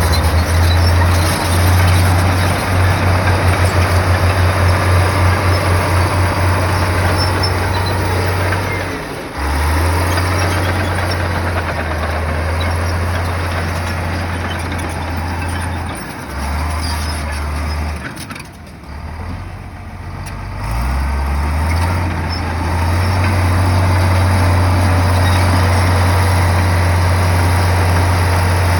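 Komatsu bulldozer's diesel engine running hard under load, a deep drone with track and ground noise. A few seconds in the drone pulses rapidly; it dips briefly twice, eases off about two-thirds of the way through, then comes back steady and strong.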